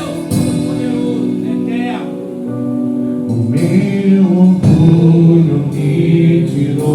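Slow gospel worship music: held chords with singing over them, swelling louder about halfway through.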